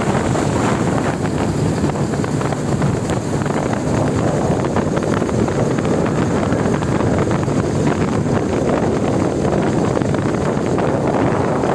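Loud, steady wind rush buffeting the microphone of a motorcycle riding at speed, blended with the vehicle's road noise.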